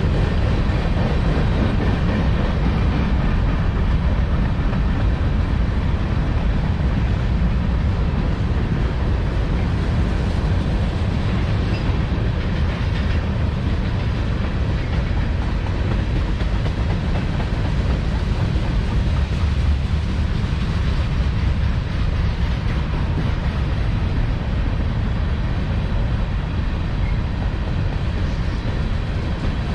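Freight train cars rolling past at steady speed: a continuous rumble of wheels on rail with a clickety-clack of wheels over rail joints.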